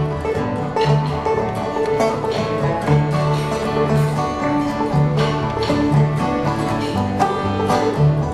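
Banjo, guitar and bass trio playing an instrumental tune at a steady tempo, the plucked banjo prominent over the guitar and bass notes.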